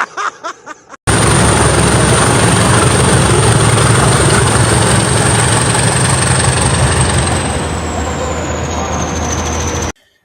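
Loud engine noise with a steady high-pitched whine that slides lower near the end, cutting in abruptly about a second in and cutting off just as abruptly before the end.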